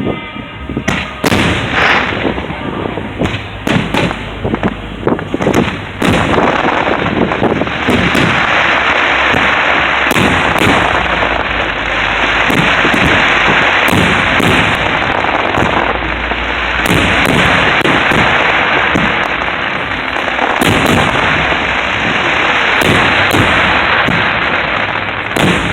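Fireworks display: sharp bangs of shells bursting, then from about six seconds in a dense, continuous barrage of bursts and crackle that eases off near the end.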